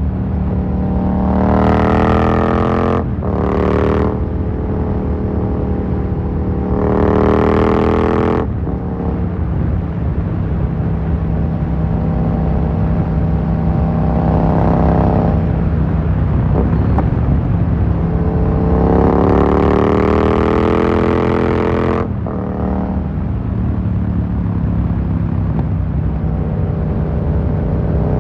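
Yamaha MT-07's parallel-twin engine through an Akrapovic carbon full exhaust, accelerating hard through the gears. The revs climb in several rising sweeps, each broken off sharply by a quick upshift, with steadier running in between.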